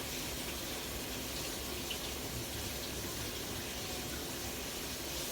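Kitchen tap running steadily as potatoes are rinsed under it, with a washing machine running in the background.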